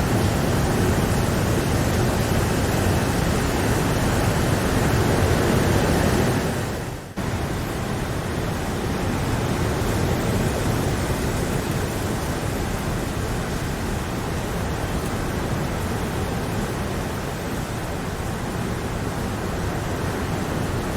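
Steady, dense rain, an even wash of noise. It dips out briefly about seven seconds in and comes back slightly quieter.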